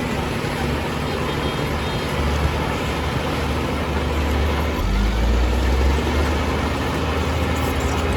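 Heavy diesel engine of earth-moving machinery running steadily. About five seconds in its low note shifts and grows slightly louder.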